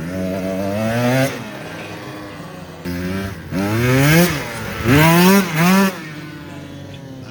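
110cc pit bike engine revving in repeated bursts as the rider works the throttle. A long rise comes in the first second, then several shorter rev-ups from about three to six seconds in, each climbing in pitch, with the engine dropping back to a lower, steady note between them.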